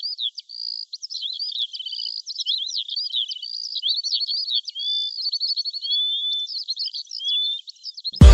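Songbirds chirping and trilling, many quick overlapping calls and whistles, thin and high with no low end. Loud electronic music with a heavy bass beat cuts in at the very end.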